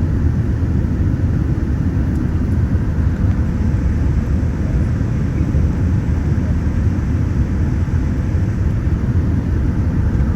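Steady low rumble of a Boeing 787-10 airliner's engines and rushing air, heard inside the passenger cabin in flight on the approach to landing.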